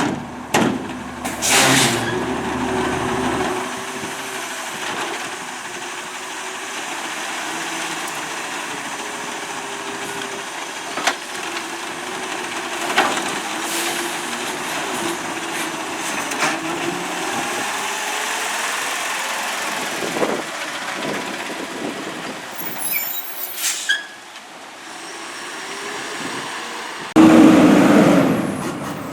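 Autocar garbage truck's diesel engine running, its pitch slowly rising and falling, with scattered metallic knocks and clicks. A sudden, louder burst of truck noise comes near the end.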